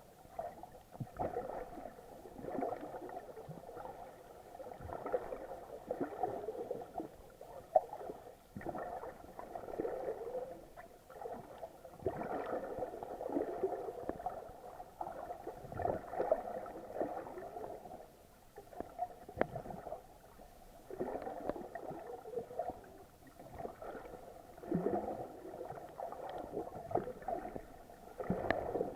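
Muffled water sloshing and gurgling against an action camera's waterproof housing, swelling in uneven surges every few seconds, with a few faint clicks.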